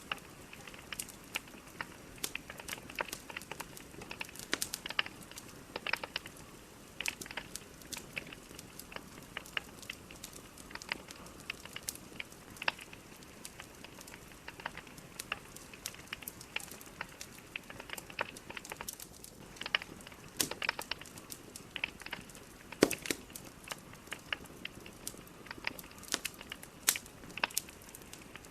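Burning logs in a fireplace crackling, with irregular sharp pops over a soft steady hiss; one louder pop comes about two-thirds of the way through.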